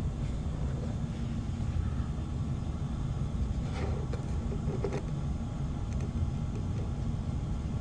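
Steady low rumble, with a few faint light clicks about four and five seconds in as small toy motorbikes are set in place in a toy showroom display.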